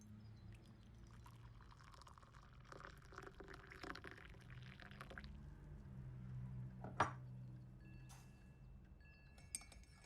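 Soft pouring of liquid, a single sharp click about seven seconds in, then light ringing clinks of china near the end, over a low steady room hum.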